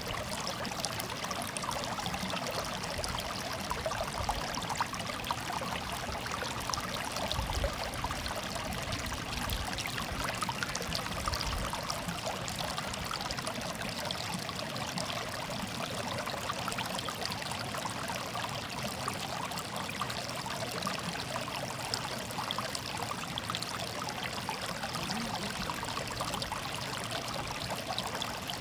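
Water running and burbling steadily in a small stream, with no break or change.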